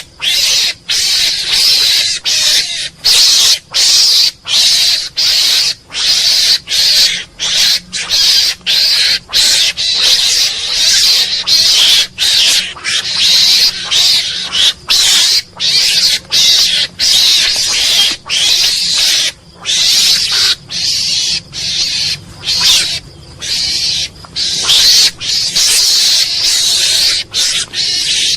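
Mongoose calling in a long, unbroken series of short, high, noisy calls without a clear pitch, about one and a half a second, each cut off by a brief pause.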